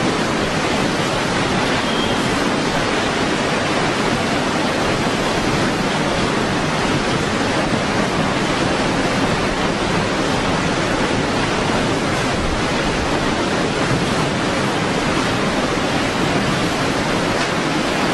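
Strong wind making a steady, loud rushing noise with no gusts or pauses.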